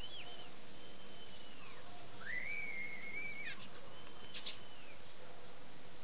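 A songbird whistling four drawn-out, clear notes, each ending in a downward slur; the third note, rising at its start, is the loudest. A couple of short clicks come about four and a half seconds in.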